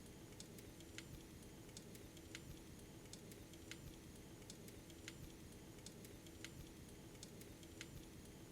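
Faint, irregular sharp clicks, about one or two a second, over a steady low hum.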